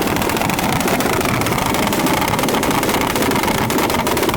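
A car engine held at high revs with its exhaust blaring in a steady, loud, rapidly pulsing drone for a timed rev contest.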